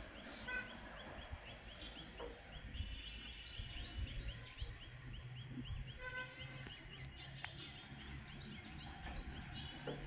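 Outdoor rural ambience: birds chirping, with a steady run of short high chirps about four a second and a few brief calls, over a low steady hum.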